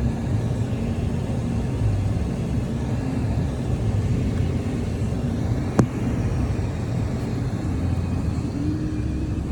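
Steady low rumble of a car's engine and road noise heard from inside the cabin while driving, with one sharp click about six seconds in.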